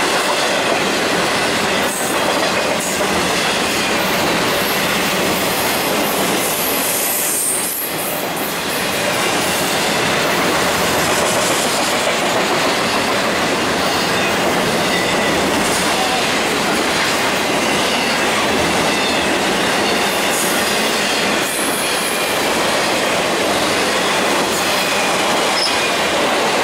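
BNSF double-stack intermodal freight train's cars rolling past at speed: a loud, steady rush and rumble of steel wheels on rail. Thin high squealing tones run through it, and there are a few sharp clicks from the rail.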